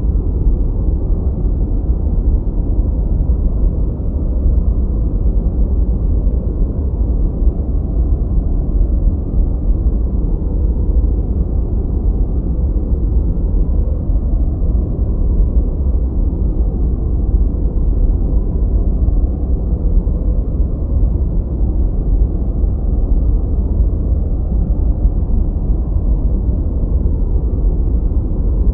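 Continuous synthetic noise for focus, deep and rumbling rather than hissing: a steady, even wash with no high end and no change in level.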